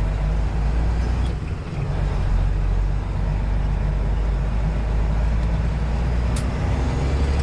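Semi-truck diesel engine running steadily while driving, heard from inside the cab as a low drone.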